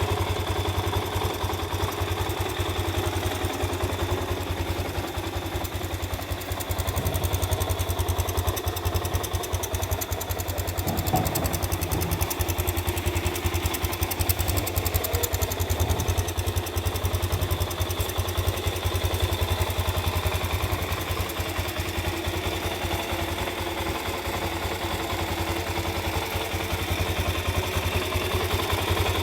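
Suzuki DR-Z400S single-cylinder four-stroke engine idling steadily through its stock muffler.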